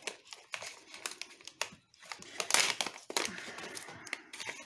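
Crushed glass chips being handled and dropped in, a run of small clicks and crinkling that grows loudest midway.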